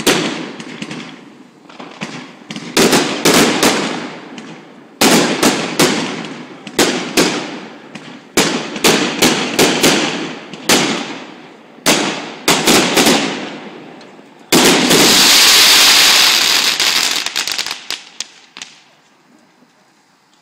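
Fireworks going off in quick clusters of sharp bangs, each trailing off in a rumble. Near the end there is a burst of dense crackling that fades away.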